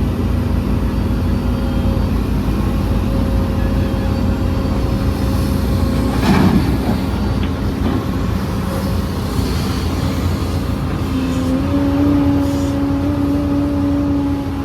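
Heavy diesel construction machinery running steadily under load, with a brief louder noisy burst about six seconds in and the engine speeding up to a higher, steady pitch near the end.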